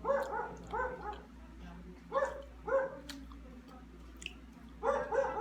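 A dog barking repeatedly, short barks that come mostly in pairs about half a second apart, several times over a few seconds.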